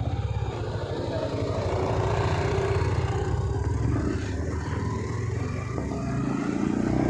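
Yamaha MT-15 motorcycle's single-cylinder engine running as the bike is ridden, its note rising slightly near the end.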